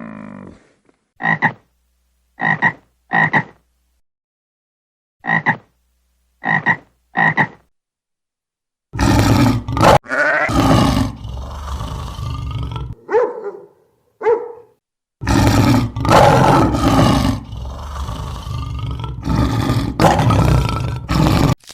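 Frogs croaking: two sets of three short croaks, then a longer, louder run of dense croaking with a short break partway through.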